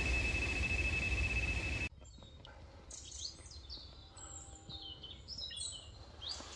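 A steady hiss with a thin, constant high tone cuts off abruptly about two seconds in. Small birds then chirp: a scattered run of short, high chirps over a quiet background.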